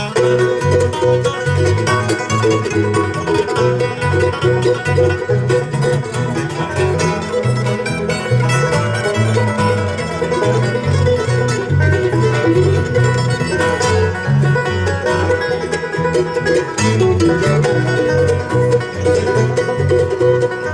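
Live band playing an instrumental break in a country-style song: plucked string instruments over a bass line that steps from note to note, with no singing.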